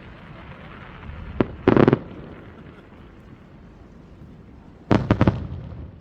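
Fireworks shells bursting: one sharp bang about one and a half seconds in, quickly followed by a short rattle of bangs. Near the end comes another rapid cluster of several bangs that trails off.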